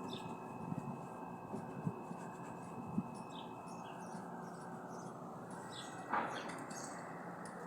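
Outdoor background noise with faint, short high chirps of small birds, broken by a few light knocks, the sharpest about three seconds in and a short rougher one about six seconds in.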